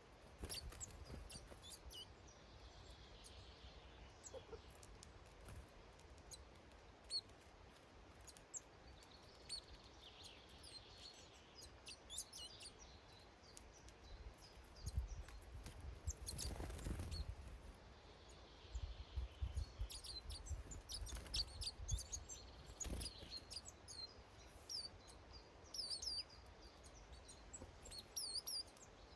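Small garden birds chirping and calling at a feeder: many short, high chirps, thicker in the second half, with a few sharp clicks and a low rumble now and then.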